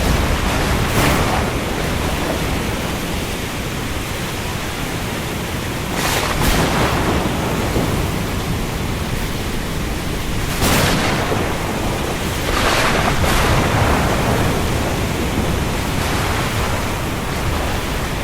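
Steady rain over the sea: an even hiss with a low rumble underneath, swelling louder every few seconds as waves surge.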